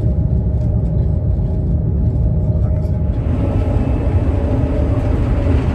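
ICE high-speed train running at speed, heard from inside the carriage: a steady low rumble of running noise with faint steady tones. About three seconds in it changes to a brighter, hissier running noise as the sound shifts to the vestibule.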